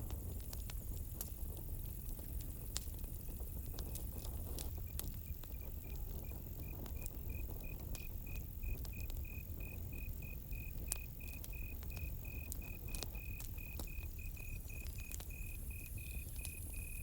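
Campfire crackling, scattered sharp pops over a low steady rumble, while a cricket fades in a few seconds in and chirps steadily, about three chirps a second.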